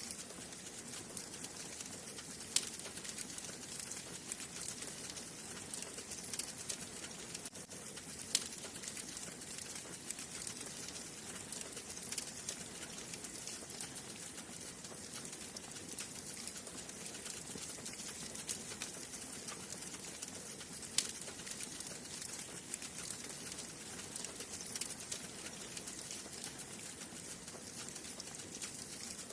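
Wood fire burning in a fireplace: a steady hiss full of small crackles, with a few sharp pops from the burning logs, the loudest about two and a half seconds in, just past eight seconds, and about twenty-one seconds in.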